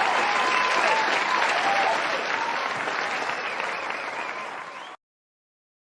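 A crowd applauding, with a few cheering voices. It fades a little, then cuts off abruptly about five seconds in.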